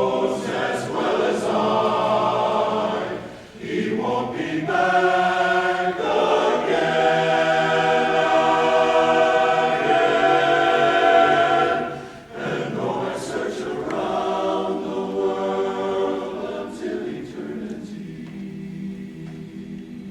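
A choir singing a cappella in held, sustained chords, with brief breaks about three and a half and twelve seconds in. Near the end it thins to a softer, lower held chord.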